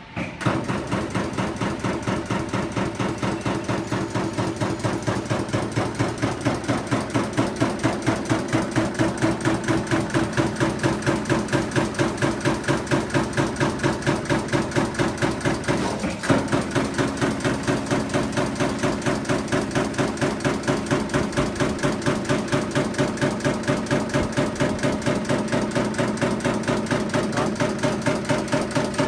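CNC punching machine punching in a fast, even rhythm of several strokes a second, with a brief hitch about sixteen seconds in.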